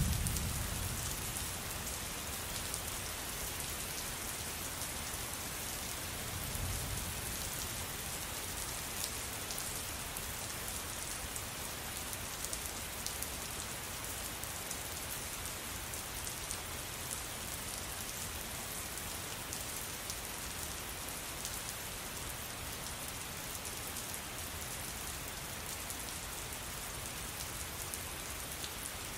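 Steady rain falling, with a dense patter of drops. A low thunder rumble fades out in the first second, and a fainter low rumble swells briefly about seven seconds in.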